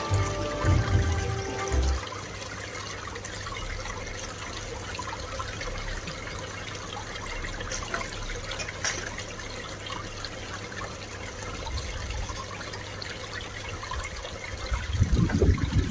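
Garden pond water trickling and splashing steadily, as from a pond waterfall or filter outlet. Low rumbling comes in near the end.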